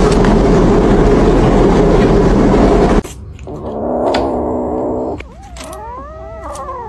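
A loud rushing noise for about three seconds that cuts off suddenly. Then a cat calls: first one held yowl, then several meows that rise and fall in pitch.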